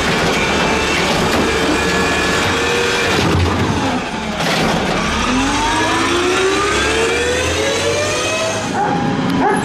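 Peterbilt 320 garbage truck's diesel engine being revved: the revs fall away over the first few seconds, then climb steadily for about four seconds before dropping back near the end.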